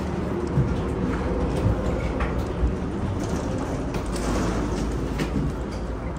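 Steady low rumble and hum of a large vehicle's engine, heard from on board, with scattered light knocks and clacks over it.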